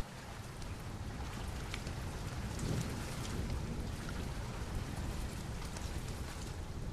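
Steady rain, with a few faint crackles from a wood fire.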